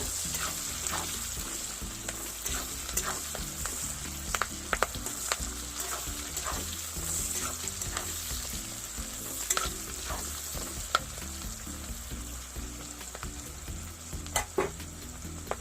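Onions and capsicum sizzling in hot oil in a pan while being stirred, with scattered scrapes and clicks of the spatula against the pan, a few of them sharper.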